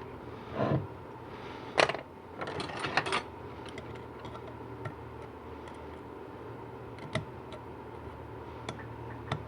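Metal clicks and scrapes of hand tools and parts on a GM 4L80E transmission pump as a snap ring is worked into its groove. A dull knock just before a second in, a sharp click near two seconds, a quick run of clicks and scraping just after, then scattered light ticks.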